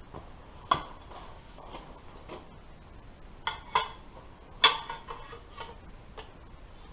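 Light metal clanks and clinks from pieces of sheet steel being handled and set down, about six separate strikes with a short ring, the loudest a little past halfway.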